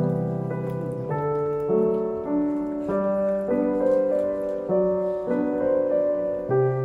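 Background piano music: soft keyboard chords that change about every half second over a sustained bass note.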